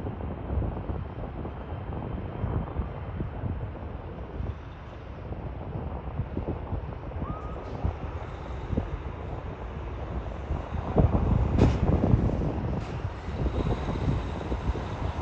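Airbus A330 landing: a low rumble mixed with heavy wind buffeting on the microphone, growing louder with a sharp crack about eleven seconds in.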